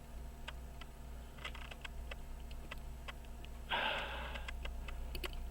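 A person sniffs once, a short breath through the nose about four seconds in. Under it are faint scattered clicks of small tools on watch parts and a steady low hum.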